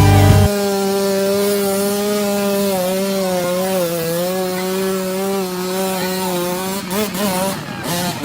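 Dirt bike engine held at steady high revs with a buzzy, slightly wavering pitch, the revs swinging up and down briefly near the end. Rock music cuts off about half a second in.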